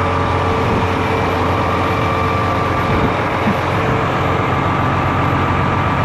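The diesel engine of a 2022 Volvo VNL 760 semi truck idling with a steady low hum while the truck sits in stopped traffic.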